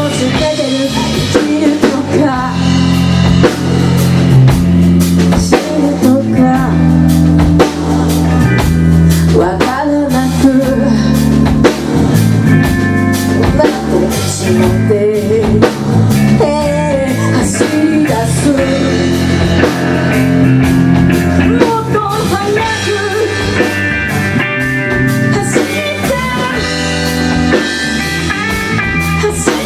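Live rock band playing a song: a drum kit keeps a steady beat under electric guitar and bass, with melodic lines sliding up and down over the top.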